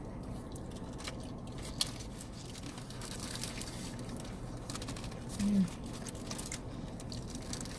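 Chewing and eating sounds with small crinkles and clicks of a fast-food wrapper, over a steady low hum. A short hummed "mm" about five and a half seconds in.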